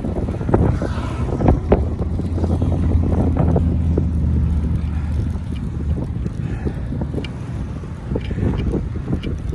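Wind buffeting the microphone of a camera carried on a moving bicycle, with scattered short knocks and rattles. A low steady hum stands out through the middle and fades after about six seconds.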